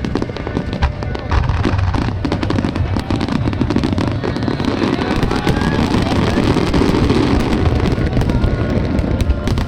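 Fireworks finale barrage: a dense run of booming bursts and crackling that swells about a second in and stays loud.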